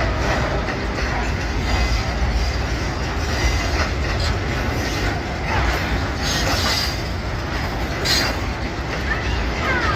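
Loaded freight train rolling past, its wagons' wheels rumbling and clattering on the rails, with a couple of brief high-pitched wheel squeals in the second half.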